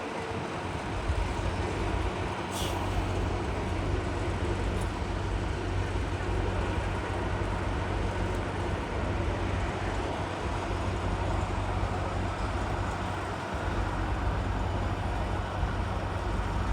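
Jet airliner engines making a steady, continuous rumble with a broad noise over it, which sets in about a second in.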